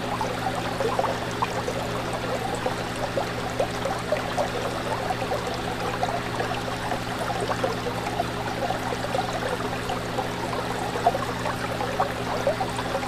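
Fish tank water bubbling and trickling continuously, a dense stream of small gurgles, over a steady low hum.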